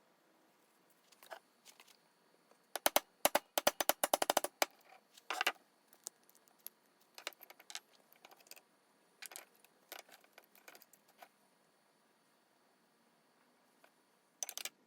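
Small metal hand plane parts clinking and clattering as they are handled. There is a quick run of sharp clicks a few seconds in, then scattered clicks, and a brief cluster near the end.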